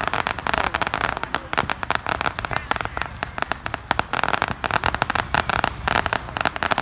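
Fireworks crackling: a dense, continuous stream of rapid sharp pops and cracks over a hiss.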